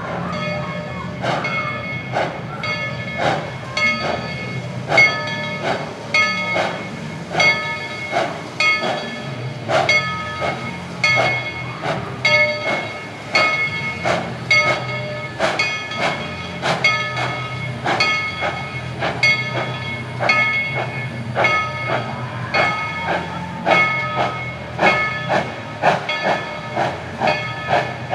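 Steam locomotive's bell ringing repeatedly, about two to three strikes a second and varying in strength, over a low steady rumble from the train.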